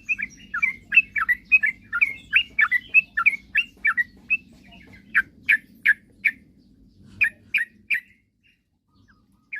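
Yellow-vented bulbul (trucukan) singing a quick run of short chirping notes, about three a second, breaking off about eight seconds in, with another note near the end. A faint low hum lies under the song until it stops.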